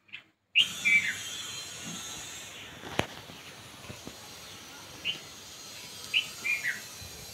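Birds chirping in short downward-sliding notes, a quick group near the start and more about five and six seconds in, over a steady high hiss of outdoor background noise. A single sharp click about three seconds in.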